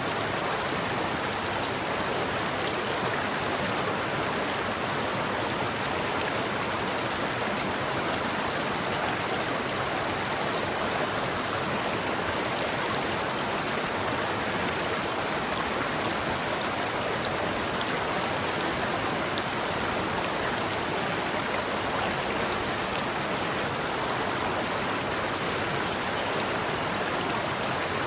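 River water flowing: a steady rushing of a stream over rocks, even and unbroken throughout.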